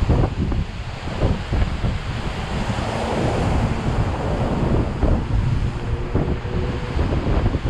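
Strong storm wind buffeting the microphone over heavy ocean surf, a continuous rush that swells about three seconds in.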